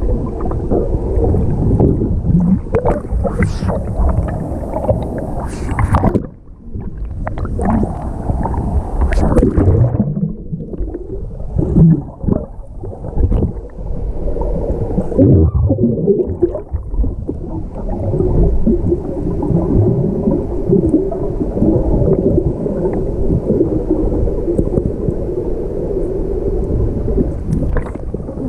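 Muffled rushing and gurgling of waterfall water heard with the camera underwater, swelling and fading unevenly with a few brief dips.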